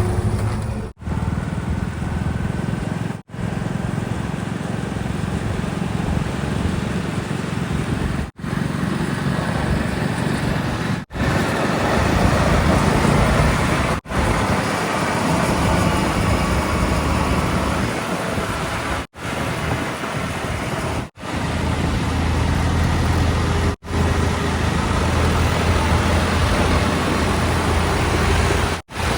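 Heavy diesel engines of earth-moving vehicles running steadily, in a string of short clips, each break marked by a brief drop-out.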